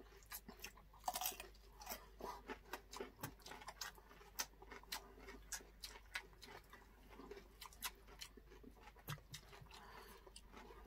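Close-miked chewing of pork barbecue and cucumber: a quiet, irregular run of quick wet mouth clicks and smacks.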